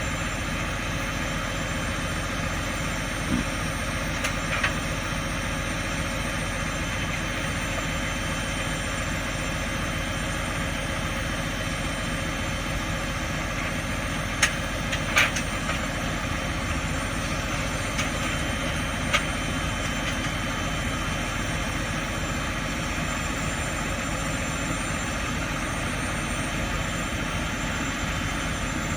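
Truck engine idling steadily, with a few short sharp clanks about 3 to 5 seconds in and again around 14 to 19 seconds in.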